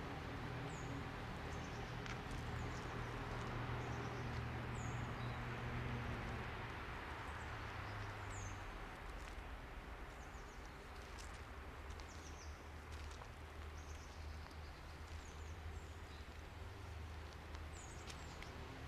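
Small birds giving short, high, downward-sliding chirps every second or two, over a steady rushing background and a low hum that fades out about a third of the way in.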